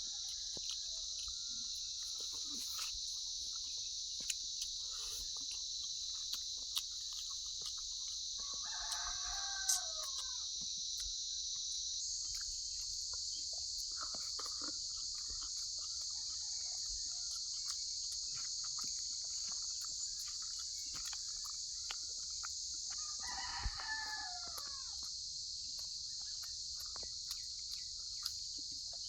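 Rooster crowing twice, about nine seconds in and again near the end, over a steady high chirring of crickets, with scattered small clicks.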